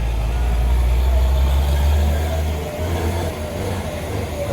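Heavy truck engine running with a loud, steady low rumble that drops off about two and a half seconds in.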